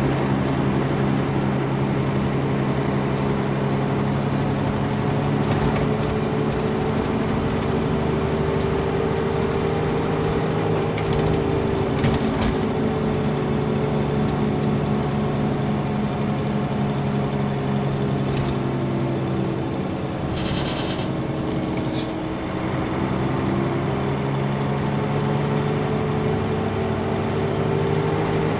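Nissan Diesel UA bus with a PF6HTA diesel engine and a five-speed manual gearbox, heard from inside while it drives, the engine running steadily. Its pitch sags and recovers a couple of times. Short hisses of air come about eleven seconds in and again about twenty-one seconds in, where the engine note briefly drops away.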